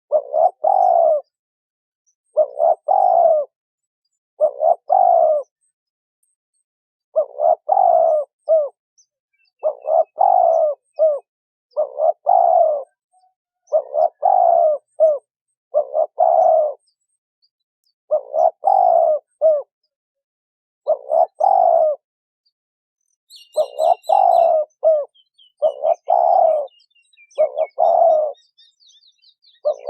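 Female spotted dove cooing: short phrases of low coos repeated about every two seconds, the call used to provoke male doves. Faint high chirps from another small bird join in near the end.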